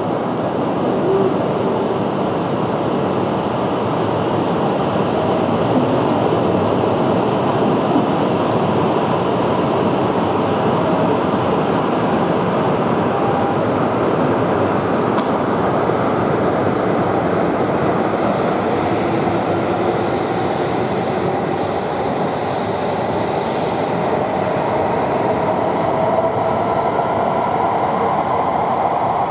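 Tohoku Shinkansen train running along the station platform: a steady, loud rush of wheel and running noise with a faint whine from the train's motors, which rises in pitch near the end.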